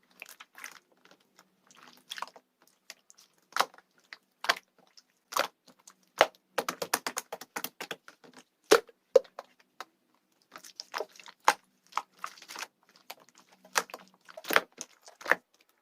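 Runny homemade slime being pressed and worked by hand, giving irregular sticky clicks and crackling pops, with dense runs of them in the middle and near the end.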